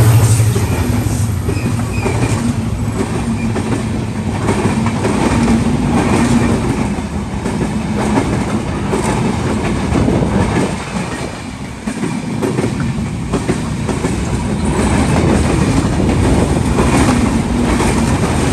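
Passenger coaches of an intercity train rolling past at speed, wheels clattering over rail joints in a steady, dense run of knocks, with a short dip in loudness about two thirds of the way through.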